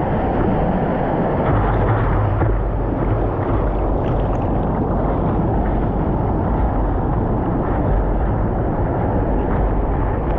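Steady, loud rumbling noise of a vehicle in motion, with no distinct events.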